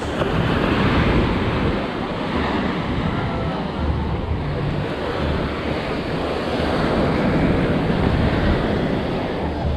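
Ocean surf washing onto a beach, with wind buffeting the microphone; the wash swells about a second in and again near the end.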